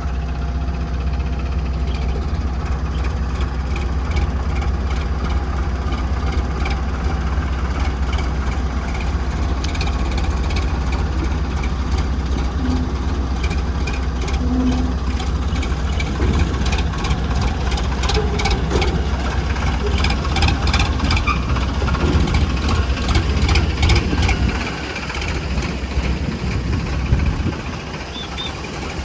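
Heavy diesel machinery engine running steadily with a regular clatter, its level dipping briefly twice near the end.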